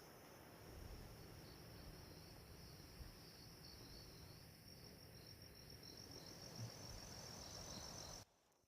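Faint, high-pitched insect trill, pulsing steadily like crickets chirring, over a quiet background hiss; it cuts off abruptly near the end.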